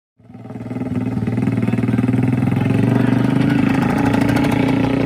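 Motorcycle engine running at a steady speed, fading in at the start, with a fast, even firing pulse.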